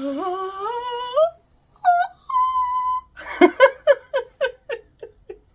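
Woman squealing with excitement: a long rising squeal, a held high note, then a quick run of short high-pitched squeaks, about five a second, fading out.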